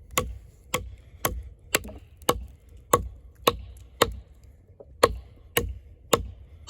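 Heavy fixed-blade camp knife with a 6.7-inch AUS-10 steel blade chopping into a log: sharp strikes of the blade biting into the wood, about two a second, with a brief pause near the middle.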